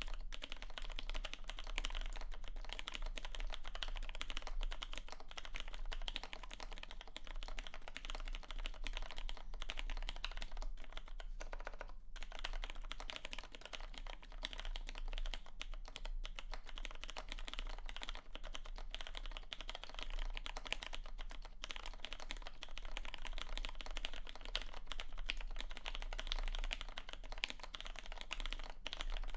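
Continuous fast typing on a Samice mechanical keyboard with an FR4 plate, Ergo Clear switches and PBT keycaps: a dense stream of key clicks with a few brief pauses.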